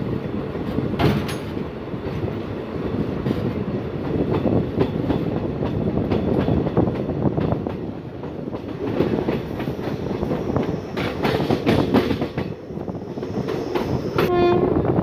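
Running noise of a passenger train in motion, heard from the open coach doorway: a steady rumble of wheels on the rails with clacks over rail joints. A brief horn blast sounds near the end.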